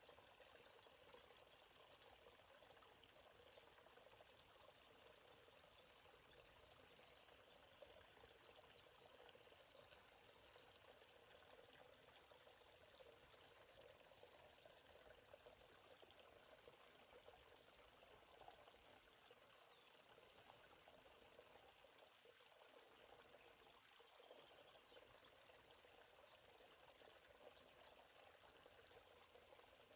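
Steady, high-pitched insect chorus over the faint trickle of a forest stream.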